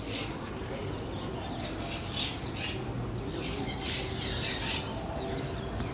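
Several birds calling in short, high chirps and squawks, bunched a couple of seconds in and again around the middle, over a steady low background murmur.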